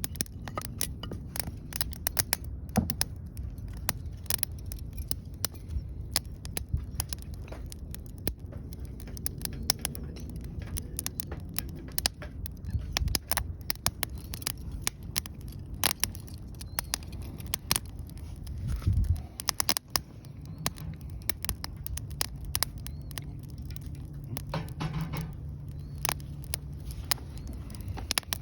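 Wood fire crackling, with many irregular sharp pops over a low rumble.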